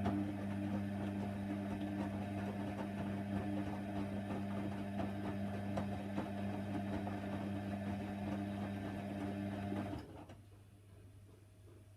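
Hoover Nextra HNWL 7146 washer dryer humming steadily with faint irregular clicks, then switching off abruptly about ten seconds in.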